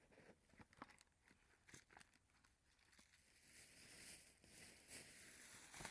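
Near silence with faint crinkling, rustling and small clicks of litter being picked up and handled.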